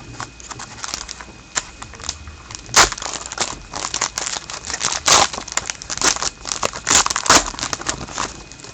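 Trading-card pack wrapper crinkling and crackling as a pack is torn open and the cards are pulled out, with a few sharper crackles about three, five and seven seconds in.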